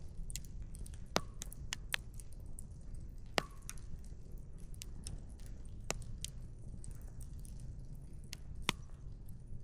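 Wood campfire crackling: irregular sharp pops and snaps of burning firewood, a few louder ones among many small clicks, over a steady low rumble.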